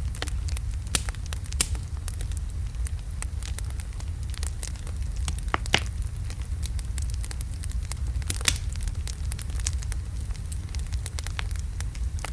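Wood logs burning in a fireplace: a steady low rumble of the flames with irregular sharp crackles and pops, two louder pops about six and eight and a half seconds in.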